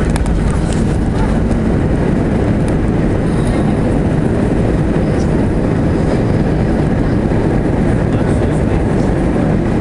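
Steady, loud low rumble of an Airbus A320 heard from inside the cabin during landing: engine, airflow and undercarriage noise with no rise or fall.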